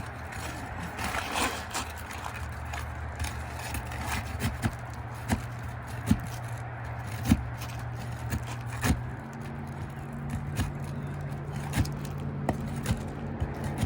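Scraping and sharp clicks of a tool working under asphalt shingle tabs to pull out roofing nails, over a steady low hum that shifts slightly higher about nine seconds in.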